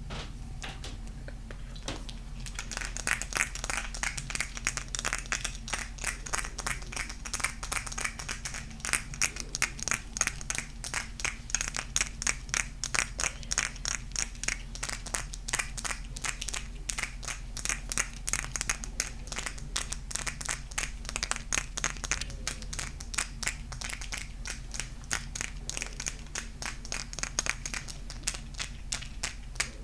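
Rapid, crisp fingernail tapping and scratching on golden crystal stones. It starts about two seconds in and keeps going as a dense run of many small clicks a second, over a faint steady low hum.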